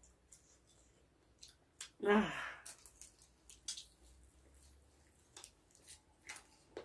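A person lets out one loud, breathy "ah" about two seconds in that falls in pitch, a gasp at the chilli heat of the spicy chicken feet. Scattered short clicks and smacks of chewing follow.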